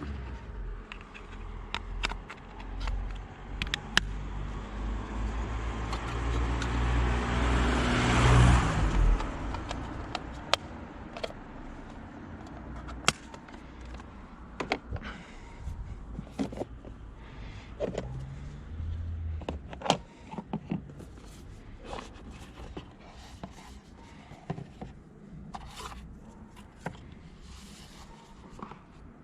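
A car passes close by, its engine and tyre noise building to a peak about eight seconds in and then fading. After that come scattered sharp clicks and light knocks of hands working on parts of the car.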